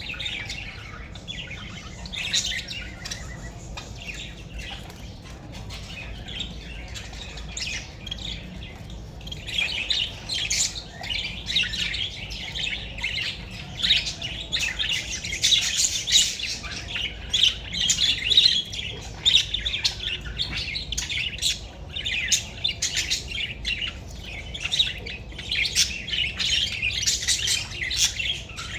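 Young pet birds chirping and squawking continuously in rapid short calls, sparser at first and becoming much busier and louder about a third of the way in.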